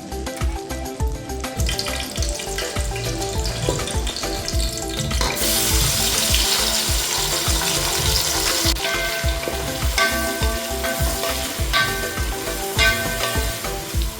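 Food sizzling as it fries in hot oil in a pan, with stirring; the sizzle swells loudest for a few seconds around the middle. Background music with a steady beat plays throughout.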